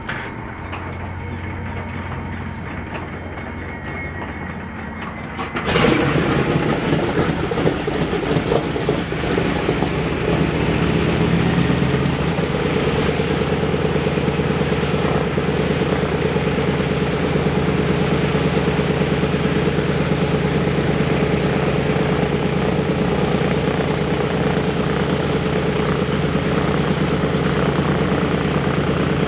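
B-17 Flying Fortress's Wright R-1820 Cyclone nine-cylinder radial engine being started: a steady low hum, then about six seconds in the engine catches with a sudden loud burst. It fires raggedly for several seconds and settles by about halfway into a steady idle.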